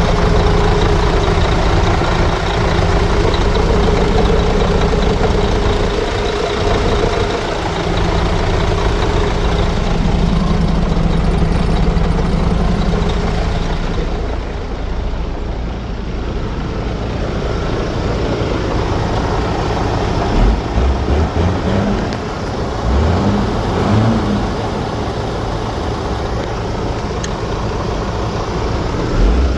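MAN TGA 480 truck's common-rail diesel engine running, steady and louder in the first half, then quieter from about halfway, with a few short low thumps and brief rises in pitch later on.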